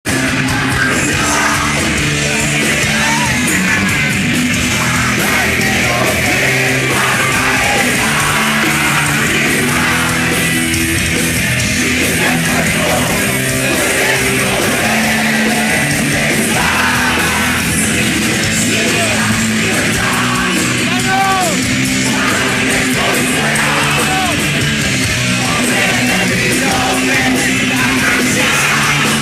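Heavy metal music with yelled vocals, playing loud and unbroken.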